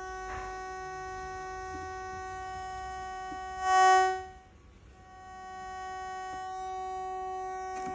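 Steady electronic buzz with a high, evenly pitched tone, heard as static buzz on the audio output of an Allen & Heath CQ-20B digital mixer during playback from a MacBook over USB. About four seconds in it swells loudly, then almost cuts out for about a second before fading back to its steady level. The dip fits the USB cable being disconnected.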